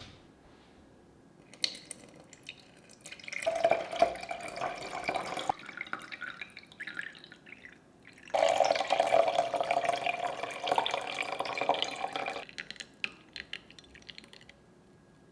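Water running from a tap twice, first for about two seconds, then for about four seconds, with light clicks of handling before and after.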